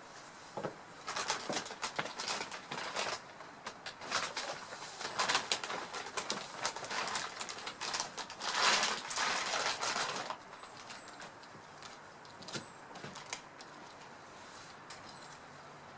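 Birds in a tree: bursts of rustling and wing flapping between about one and ten seconds in, then quieter, with a few faint high chirps.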